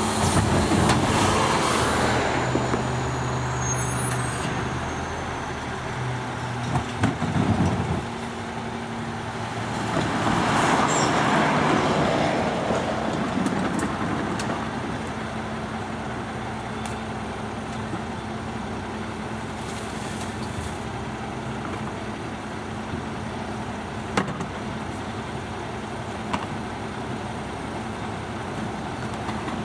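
Garbage truck's diesel engine running, its low hum dropping away about eight seconds in, with a swell of rushing noise a couple of seconds later.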